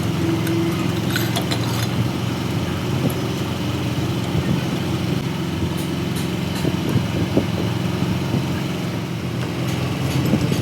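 An engine running steadily at idle, with scattered light clicks and taps over it.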